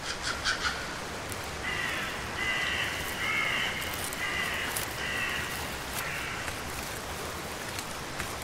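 A bird calling in a series of short, harsh calls, about five or six of them over a few seconds, over a steady background hiss.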